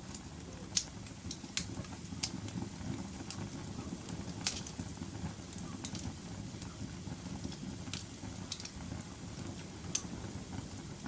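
Wood fire burning with a low steady roar and irregular sharp crackles and pops, about half a dozen standing out.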